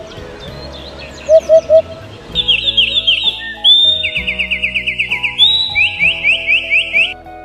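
Bird calls: three short quick notes about a second in, then from about two seconds in a loud, fast run of high, sweeping chirps that slows near the end.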